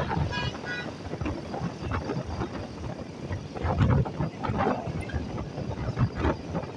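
Road noise from a moving vehicle with wind buffeting the microphone in uneven gusts, and a brief beeping tone, like a horn, a little under a second in.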